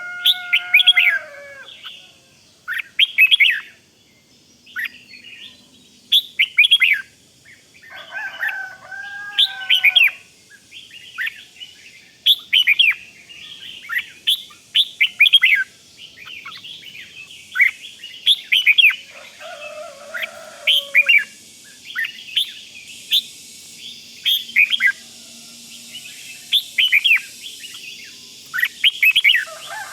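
Red-whiskered bulbuls singing: quick bursts of sharp, whistled chirps every second or so, with a few lower, warbled phrases in between.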